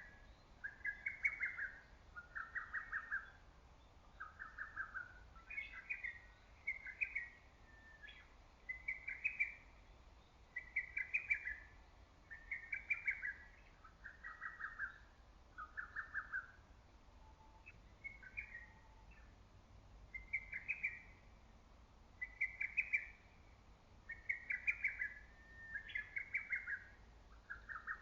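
Lesser cuckoo singing its loud song over and over: quick-fire, staccato phrases that step between a higher and a lower pitch, following each other every second or two with a short lull about midway.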